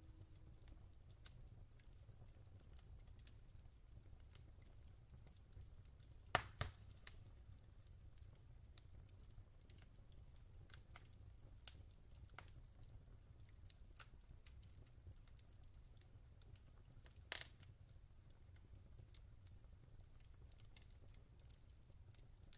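Log fire crackling faintly, with scattered small pops and two louder pops, one about a quarter of the way in and one about three quarters of the way in, over a low steady hum.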